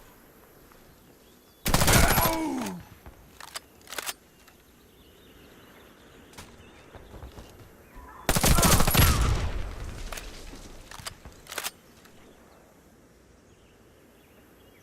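Two bursts of automatic gunfire, each about a second long and some six seconds apart, with a few single sharp cracks after each burst.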